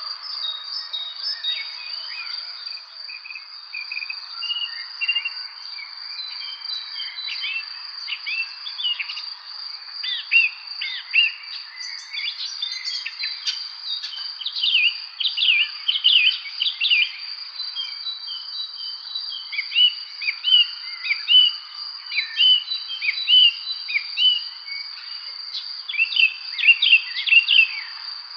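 Many songbirds chirping in short, repeated phrases, over a continuous high, steady insect trill. The birdsong is busiest about halfway through and again near the end.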